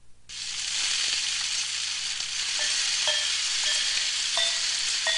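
A steady crackling hiss that starts abruptly just after the beginning, with short high notes coming in from about halfway.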